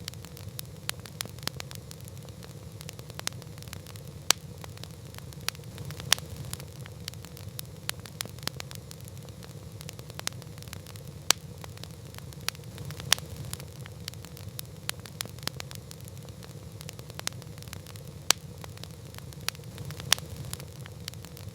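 Wood campfire crackling: irregular sharp pops and snaps, several of them loud, over a steady low rumble of the burning fire.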